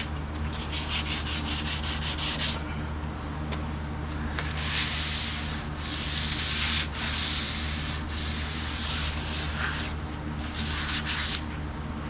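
Hand sanding on a vehicle cab's sheet-metal roof. It starts with a couple of seconds of quick, short back-and-forth strokes, then a longer spell of strokes, then another short run of quick strokes near the end. A steady low hum runs underneath.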